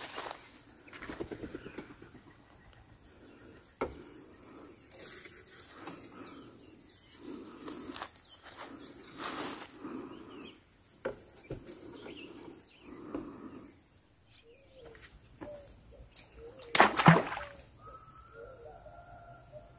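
Outdoor sound of repeated rustling and brushing noises with birds chirping in short high falling notes. A loud rushing burst comes near the end, followed by a few wavering calls.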